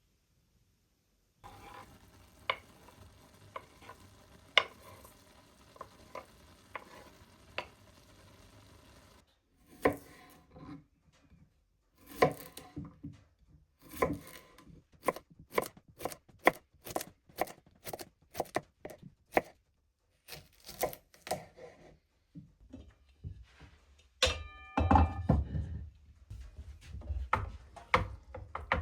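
Repeated sharp chopping knocks, about two a second for several seconds, with quieter ticking and clatter before them and a louder cluster of strikes near the end.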